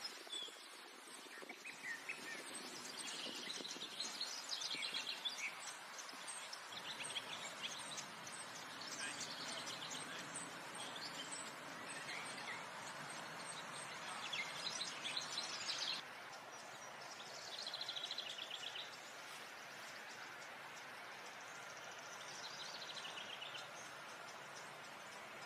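Small birds chirping and trilling on and off over a steady background hiss.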